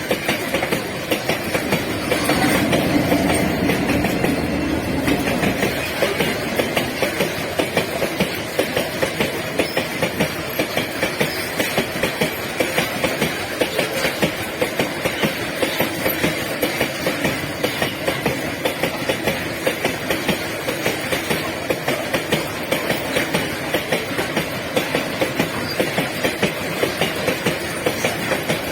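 Loaded iron ore wagons of a heavy freight train rolling past, with a steady clickety-clack of wheels over rail joints. A louder rumble comes through about two to five seconds in.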